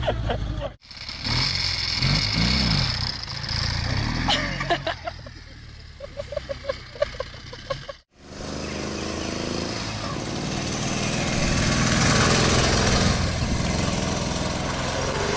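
Motorcycle engines running and revving across three short clips separated by abrupt cuts; in the last clip an engine note builds steadily louder.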